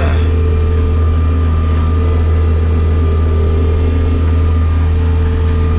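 Bobcat skid-steer loader's diesel engine running steadily: a deep, even hum with a faint steady whine above it.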